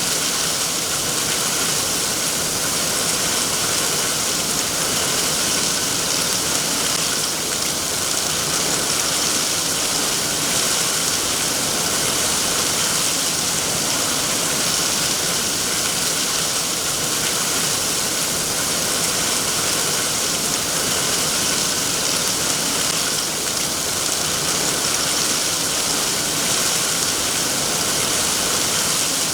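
Steady, even rain falling, a continuous hiss of drops with no breaks or changes in level.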